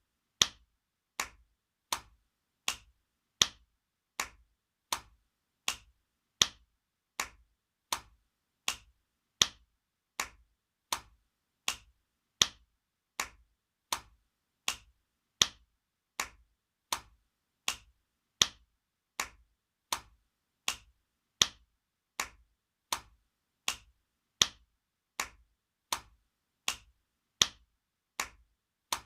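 Spanking sound effect: sharp open-hand slaps repeated at an even pace, about four every three seconds, some louder than others.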